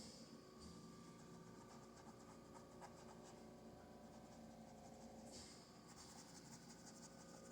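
Faint scratchy strokes of a paintbrush working acrylic paint, quickening in the last two seconds, over a low steady electrical hum.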